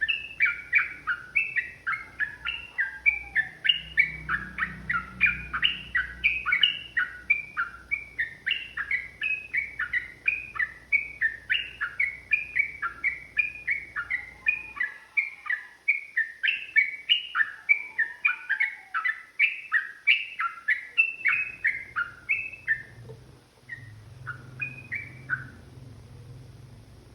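Yellow-vented bulbul (trucukan) singing a long, fast run of short chattering notes, several a second. The run breaks off late on into a few scattered notes, then stops.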